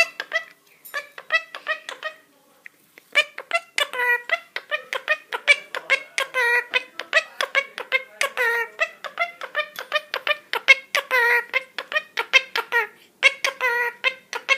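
A parrot chattering: a rapid run of short, pitched calls, with a brief pause about two to three seconds in.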